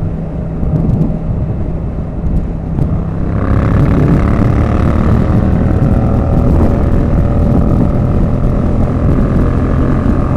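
Motorcycle running at motorway speed: a steady engine drone mixed with wind rush on the microphone. The sound grows louder and brighter about three and a half seconds in.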